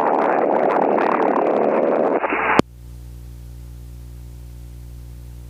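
Aircraft radio hiss from an open transmission with no words, ending in a sharp click about two and a half seconds in. After it, the Beechcraft Bonanza's engine drones steadily and much more quietly.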